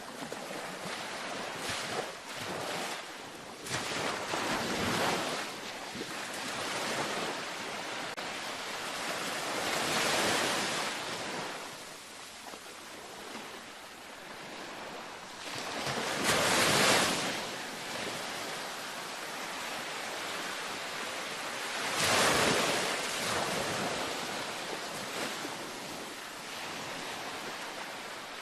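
Ocean waves breaking gently on a beach, the surf swelling and falling back every several seconds over a steady wash, with a few short splashes in the first few seconds.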